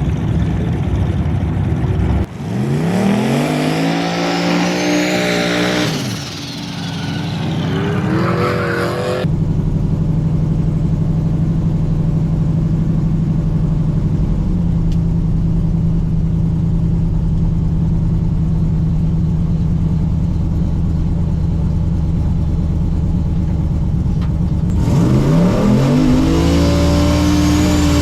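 Turbocharged LS V8 in a drag truck accelerating hard, its revs climbing and falling in sweeps through the gears, with a high whistle rising over the engine. In between it holds a long steady engine drone.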